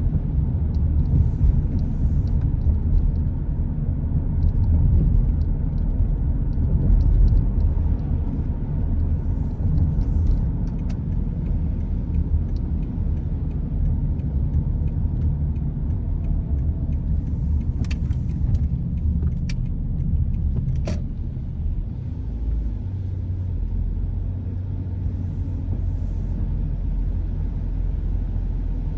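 Car driving: a steady low rumble of engine and road noise, with a few brief sharp clicks about two-thirds of the way through.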